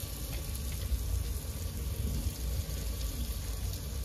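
Potatoes and spiced tomato-onion masala sizzling steadily in a pan as samosa filling fries, with a steady low rumble underneath.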